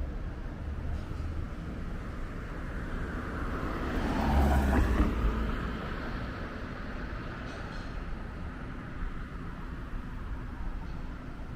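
City street traffic, with a motor vehicle passing close by. The pass is loudest about four to five seconds in.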